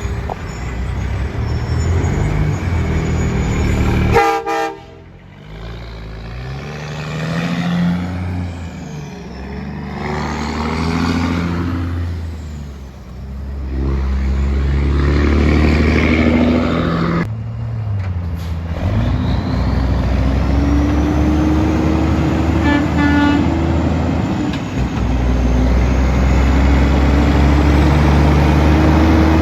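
Diesel trucks passing one after another, their engines rising and falling in pitch as they go by, with a short horn blast about four seconds in.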